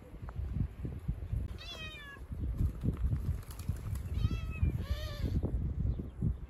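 Goats bleating: three wavering, quavering calls about one and a half, four and five seconds in, over low knocks and rumble.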